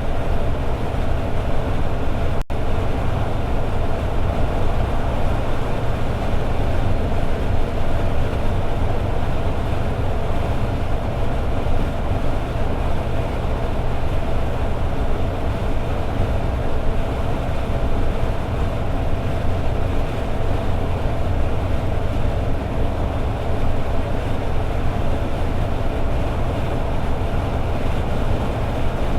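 Toyota AE86 Sprinter Trueno's four-cylinder engine cruising at steady highway speed, with a constant drone and deep rumble of engine and road noise and no change in revs.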